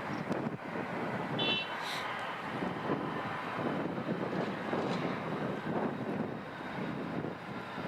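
Jet airliner engines rumbling, a steady noisy roar that swells and fades slightly, with wind buffeting the microphone.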